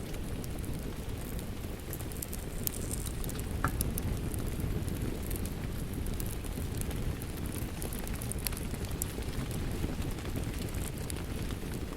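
Wood fire in a fireplace crackling, with sharp pops scattered through, over a steady low wash of rain falling outside.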